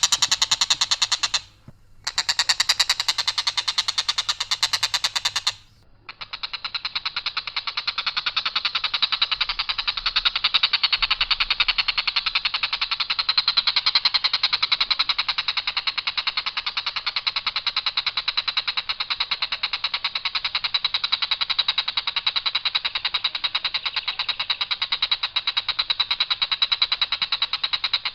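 Tengkek buto giving its long, harsh rattling call, a rapid high buzzy trill on one line without variation. It stops briefly twice in the first six seconds, then runs on unbroken.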